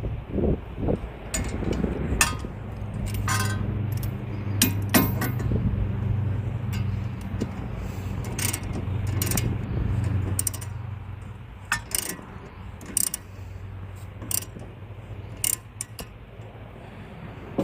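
Hand tools on a car's front strut and brake assembly as its bolts are tightened and locked in: irregular sharp metallic clicks and clinks. A low steady hum runs under them for about the first ten seconds, then fades.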